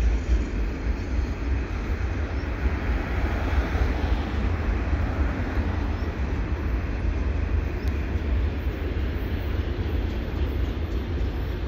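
Double-stack container train's well cars rolling past on the rails, a steady rumble of wheels and cars without a break.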